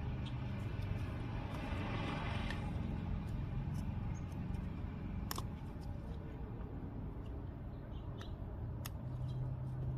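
Scattered light clicks and scraping of a small metal pick prying an old seal out of the oil filter housing, with one sharper click about halfway through, over a low steady rumble.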